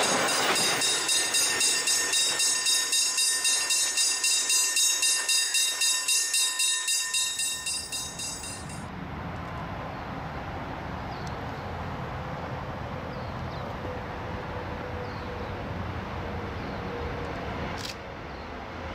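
Empty steel freight wagons rolling past: a rhythmic wheel clatter about three beats a second, with a steady high metallic ringing from the wheels, fading out about eight seconds in. After that, a low steady rumble of diesel locomotives approaching in the distance, with a couple of sharp clicks near the end.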